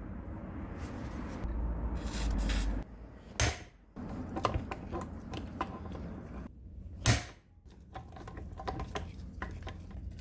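Metal parts and hand tools being handled on a rusty old electric planer, clinking and clicking. There is a scraping rush between about one and a half and three seconds in, and two sharp knocks, the first about three seconds in and the second about seven seconds in.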